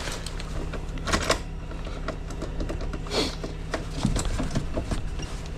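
Scattered clicks and rattles as a stuck ignition key and loose items are handled inside a car, over a steady low hum.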